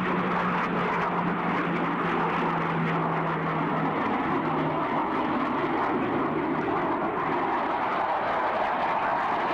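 Blue Angels F/A-18 Hornet jets passing: a steady jet roar with a low droning tone underneath that fades out about halfway through.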